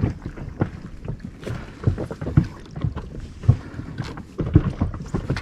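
Water slapping against an inflatable boat, with irregular low knocks on the hull.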